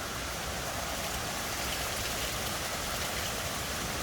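Heavy rain and gusty wind in a storm: a steady, even hiss.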